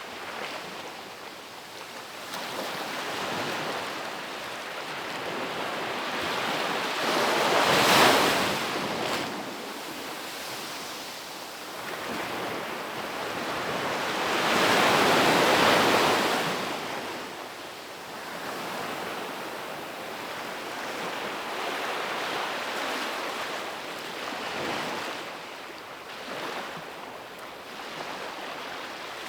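Ocean surf: waves breaking and washing onto a beach in slow swells. The loudest crash comes about eight seconds in, and a longer surge follows around fifteen seconds in.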